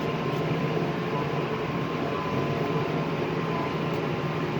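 A vehicle engine running steadily while driving along: an even drone with a faint steady whine.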